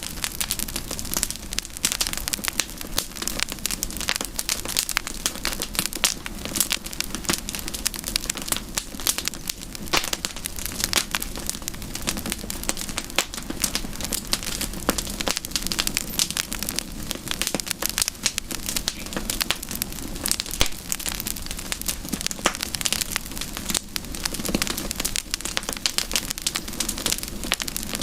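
Wood fire burning with dense, continuous crackling and popping.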